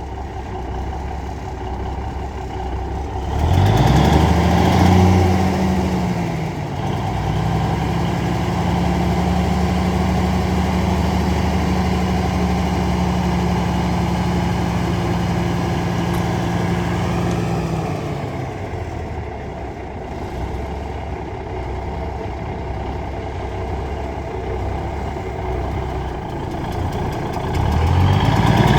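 Cummins Big Cam inline-six diesel engine in a 1984 International S2500 wrecker truck, idling and then revved about three and a half seconds in. It is held at a raised speed for about ten seconds, drops back to idle near the middle, and revs up again near the end.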